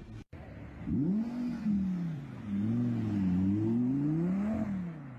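Audi R8 sports car engine revving hard, its pitch rising and falling several times as the car accelerates, lifts off and accelerates again.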